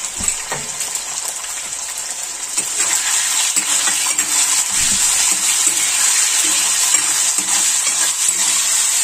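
Chicken pieces sizzling in hot oil in an iron wok, stirred with a metal ladle that clinks against the pan now and then; the sizzle grows louder about two and a half seconds in.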